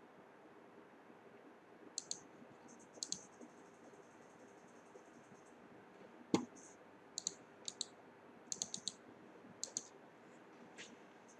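Scattered light, sharp clicks, some in quick pairs or small clusters, with one duller knock about six seconds in.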